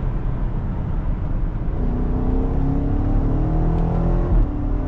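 BMW X5M's twin-turbo 4.4-litre V8 heard from inside the cabin under acceleration, its note climbing steadily in pitch over road rumble, then an upshift near the end: the pitch drops sharply with a brief bump. The quick shift comes from an XHP stage 2 transmission tune.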